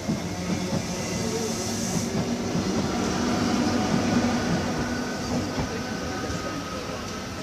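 Locomotive-hauled passenger train running along the line, a steady rumble of wheels on rail with a low hum, swelling about four seconds in and then easing.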